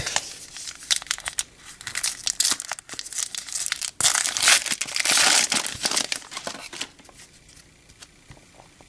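A baseball card pack's wrapper being torn open and crinkled, a dense run of crackling that is loudest past the middle and dies away about seven seconds in.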